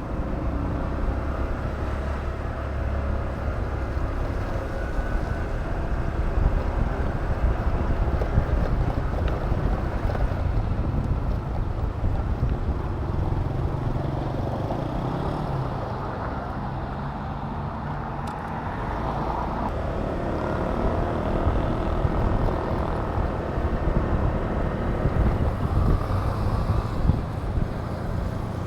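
Honda Click 125 scooter riding along the road: its small single-cylinder engine running under a heavy rush of wind on the microphone, swelling and easing with speed.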